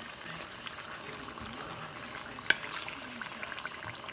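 Chicken pieces in curry sizzling steadily in a pot on high heat, with one sharp click about two and a half seconds in.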